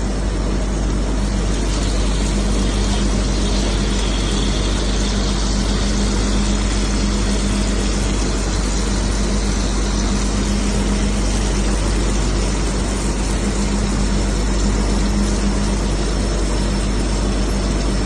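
Water chiller plant machinery running steadily: a constant hum over a broad, even rushing noise.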